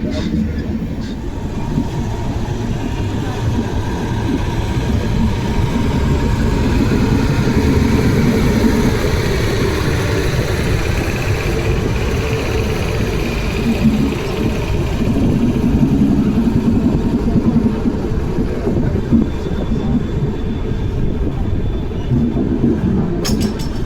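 Amrit Bharat Express passenger train running on the rails, heard from on board: a steady, dense rumble of wheels and coaches.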